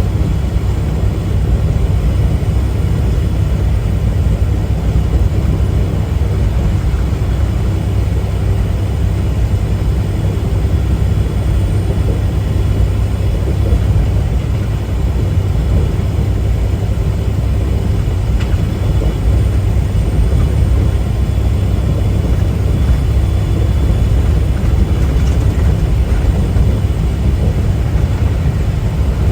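Tractor-trailer driving at a steady pace: a constant low rumble of the truck's engine and road noise.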